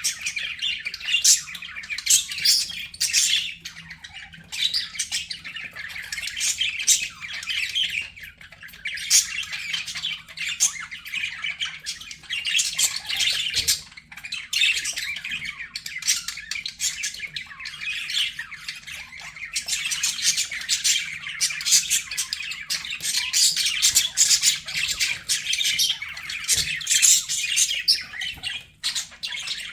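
A flock of budgerigars chattering and warbling continuously, a dense mix of rapid chirps and squawks.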